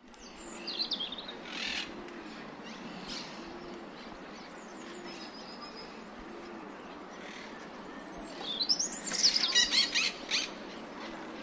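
Wild birds chirping over steady outdoor background noise, with a louder run of quick squawking chirps near the end. A soft low note repeats about once a second underneath.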